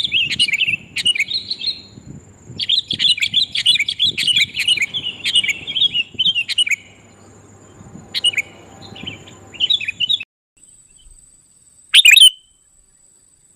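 Sooty-headed bulbuls (kutilang) chattering in rapid, excited bouts of short calls, as used in a bird-trapping lure recording. About ten seconds in the sound cuts off abruptly, leaving a thin steady high whine, and one loud short call comes near the end.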